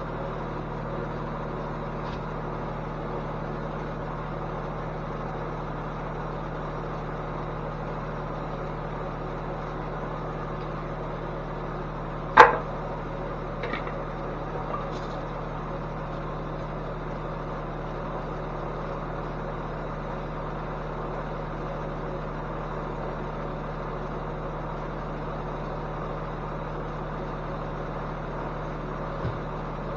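A steady low machine hum with a constant tone, broken by one sharp knock about twelve seconds in and a couple of faint clicks just after.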